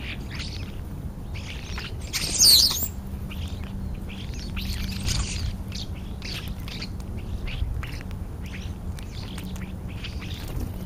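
European starlings calling at a feeding spot: a run of short high chirps and squeaks, with one loud sweeping whistle about two and a half seconds in. A steady low hum runs underneath.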